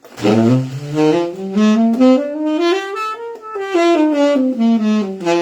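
Saxophone playing a C scale up about an octave and back down, note by note, with the volume changed from note to note: a demonstration of dynamics that makes the scale sound less flat.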